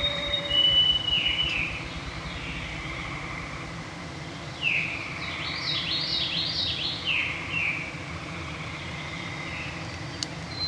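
Songbirds singing in an evening chorus: clear held whistles near the start and again near the end, and a run of descending, swirling fluty notes in the middle, over a steady low background hum.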